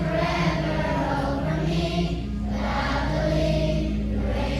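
A choir of young students singing a song with sustained notes over a steady instrumental accompaniment.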